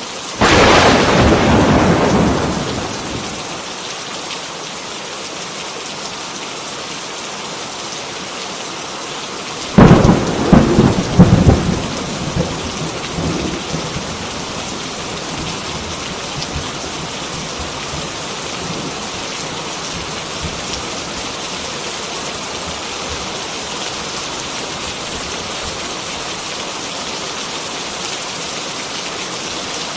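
Heavy rain falling steadily, with two loud claps of thunder: one just after the start that fades over a couple of seconds, and another about ten seconds in, several cracks close together, dying away by about fourteen seconds.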